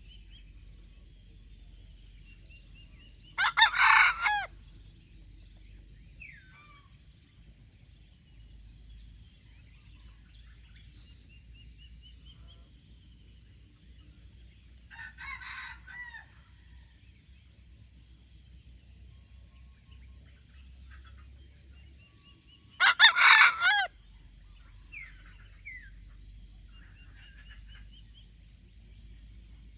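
Rooster crowing: two loud crows about a second long, with fainter, more distant crows answering in between and near the end, over a steady high hiss and scattered small bird chirps.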